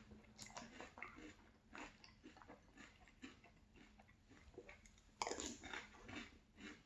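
A person chewing crunchy Boo Berry cereal close to the microphone, with quick crunches about twice a second and one louder crunch about five seconds in.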